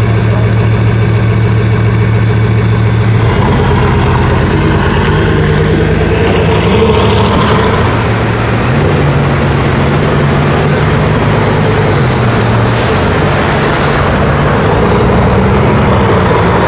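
Bugatti Veyron Super Sport's quad-turbocharged W16 engine idling steadily, then from about three seconds in running with a pitch that rises and falls in steps as the car drives off.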